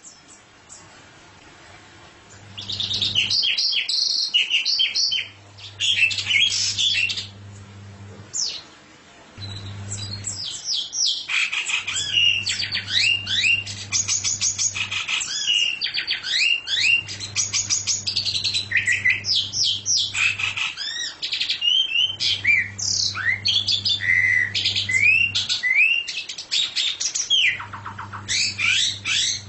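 A caged songbird singing long, rapid chattering phrases of high chirps and trills, starting a couple of seconds in and running almost without pause. A low steady hum comes and goes underneath.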